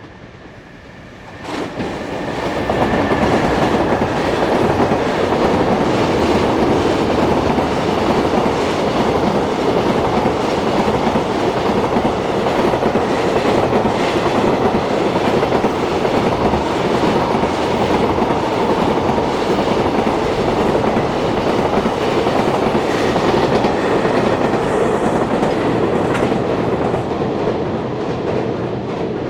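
A long freight train passing close by, its wheels running over the rails with a clickety-clack rhythm. The noise rises sharply about a second and a half in, stays loud and steady, and begins to ease off near the end.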